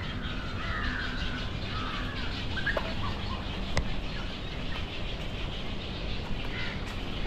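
Birds calling: several short gliding chirps and whistles, mostly in the first few seconds and again near the end, over a steady low rumble. A single sharp click about four seconds in.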